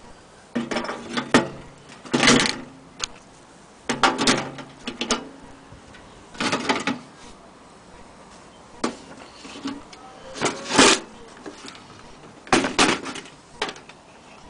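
Vintage tin toy washing machine being handled and worked: irregular clunks, rattles and scrapes of its metal parts, about eight bursts with pauses between.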